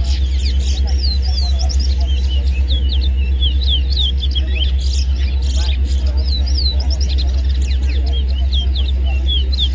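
Towa-towa (chestnut-bellied seed finch) singing in a whistling contest: a fast run of short, sliding whistled chirps, one after another, with no break. Under it runs a steady low rumble.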